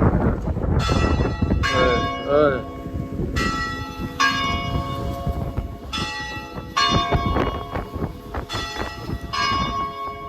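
Church bells ringing in pairs of strokes, eight strokes in all, each tone ringing on. Wind rumbles on the microphone underneath.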